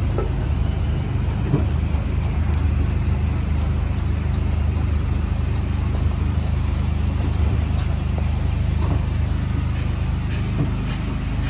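Steady low rumble of a heritage train moving slowly through a station, heard from on board, with a few faint knocks.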